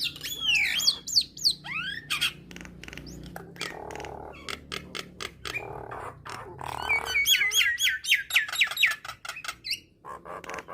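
A jalak nias singing a varied song: sliding whistles near the start, harsh squawks and sharp clicks through the middle, then a fast run of repeated whistled notes, several a second, a little past the middle.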